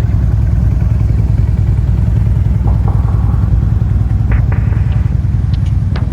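Quad (ATV) engine running at a steady pace, a continuous low rumble.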